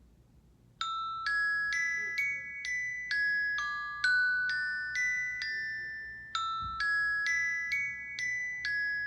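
An iPhone 6s Plus speaker playing a ringtone: a tune of bell-like single notes, about two a second, each ringing out and fading. It starts about a second in, and the phrase starts over a little past halfway.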